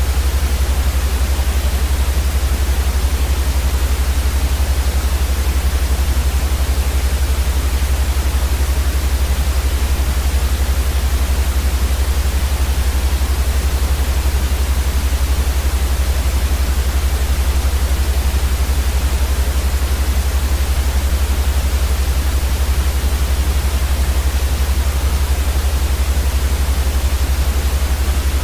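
Steady white noise for sleep: an even hiss across all pitches, unchanging throughout, with a stronger deep rumble underneath.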